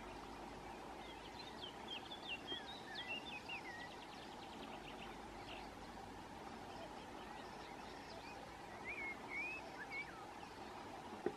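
Small birds singing: short warbled, whistled phrases from about a second in to about four seconds, with a quick rattling trill near the end of that stretch, and again around nine to ten seconds, over a steady faint background noise. A single sharp click sounds just before the end.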